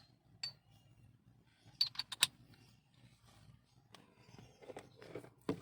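Metal hand tools clinking as a socket wrench and sockets are handled: a few scattered clicks, with a quick cluster of four or five about two seconds in.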